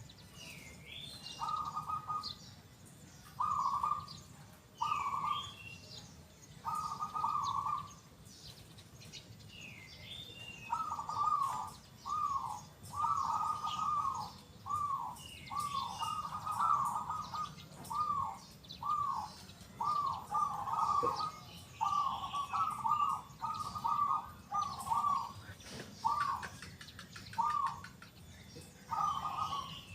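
Zebra dove (perkutut) cooing: a few spaced coos at first, then a long, quick run of short coos from about a third of the way in. Fainter, higher chirps of another small bird sound in the first part.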